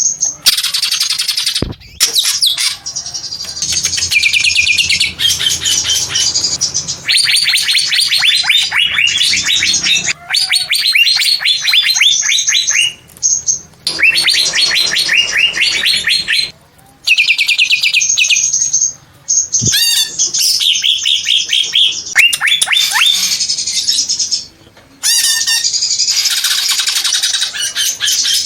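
Green leafbird (cucak ijo) singing loud and nearly without pause: long runs of rapid chattering notes, each falling in pitch, mixed with higher whistled phrases, broken by a few brief pauses.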